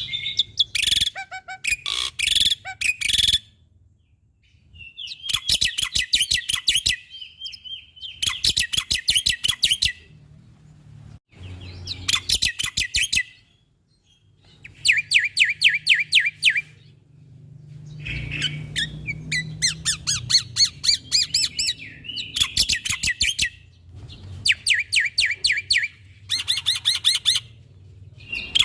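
Black-winged starling (jalak putih) singing in repeated bouts of rapid, harsh chattering notes, each bout a second or two long with short pauses between.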